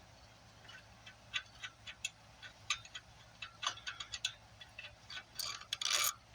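An 8 mm wrench on the carburetor mounting bolts: irregular light metallic clicks and ticks as the bolts are worked loose, with a quick cluster of louder clinks near the end.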